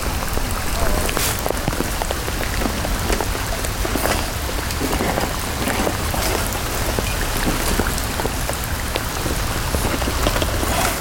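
Heavy rain falling on a plastic bag over the camera: a steady hiss dotted with many sharp ticks of single drops striking the plastic.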